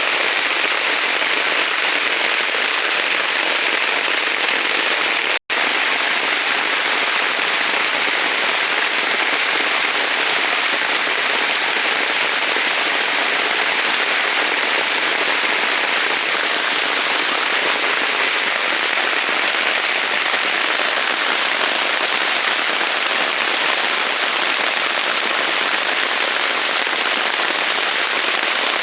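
Heavy rain falling steadily in a forest: a dense, even hiss and patter of drops. The sound cuts out completely for an instant about five seconds in.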